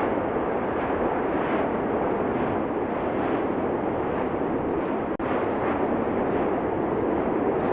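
Cumbre Vieja fissure eruption on La Palma, its vent giving out a continuous rushing roar with faint swells roughly every second. The sound drops out for an instant about five seconds in.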